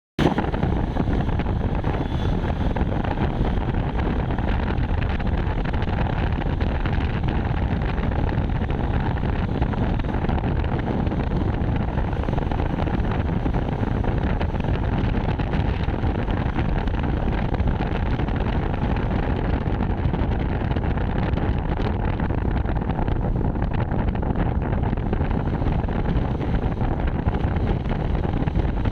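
Steady rushing wind buffeting the microphone during a bike ride, with low vehicle and road noise underneath.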